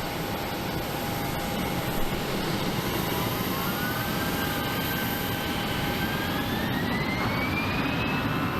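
Jet airliner's engines spooling up on the takeoff roll: a steady rumble with a whine that begins about three seconds in and climbs steadily in pitch.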